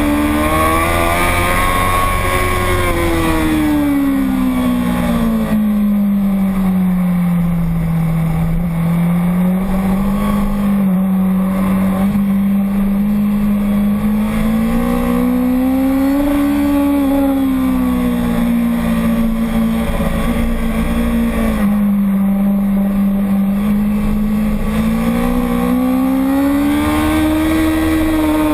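Motorcycle engine running at speed on a race circuit, its pitch rising and falling smoothly over several seconds at a time as the revs build and drop, without a break.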